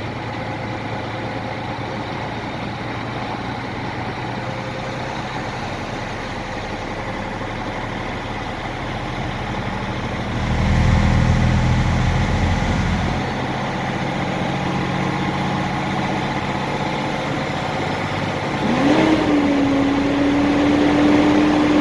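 Mercedes diesel engine of a heavy Sterling truck running at raised RPM, held fast idle. It gets steadily louder, with a louder surge about halfway through, and a steady whine comes in near the end.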